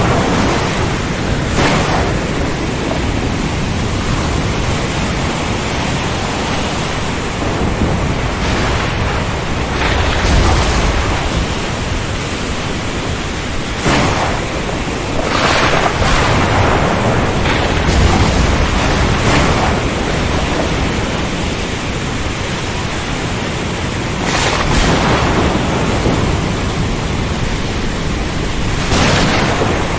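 Steady rain whose intensity swells briefly every few seconds, with low rumbling under it a third and a half of the way through.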